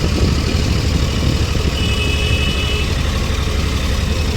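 Steady low engine rumble, like an engine idling, with a faint high whine briefly in the middle.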